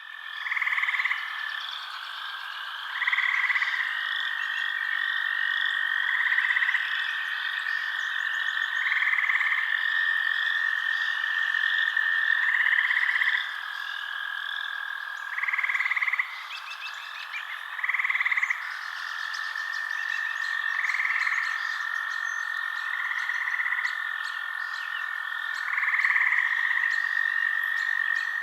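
Night chorus of frogs, loud calls repeating about every two to three seconds over a continuous steady trill, with fainter high chirping throughout.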